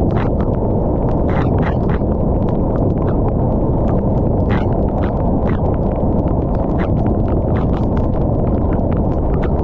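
Rain falling: a steady low rush, with many sharp, irregular clicks of drops striking a nearby surface.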